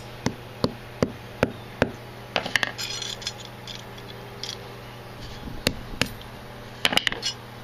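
Hammer striking a lump of hardened borax and potassium nitrate flux glass to break it open and free the gold beads, with blows about two and a half a second over the first two seconds. Glass fragments then clink and rattle, and a few more sharp hits come near the end.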